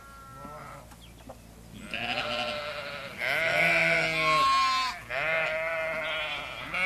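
Sheep bleating: a faint bleat near the start, then three long, loud bleats in a row from about two seconds in, some higher-pitched and some deeper.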